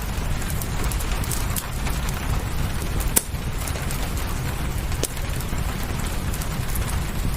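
Steady rain mixed with a crackling wood fire, a few sharp pops standing out, the loudest about three seconds in and another about five seconds in.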